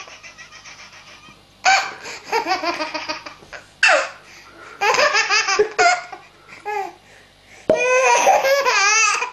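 A baby laughing hard in several fits of quick, high-pitched laughs, with short pauses between them; the longest fit comes near the end.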